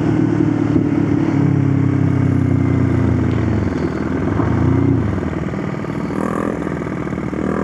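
Motorcycle engine under way: it holds steady revs, then the revs fall, pick up briefly, and drop away as the bike slows.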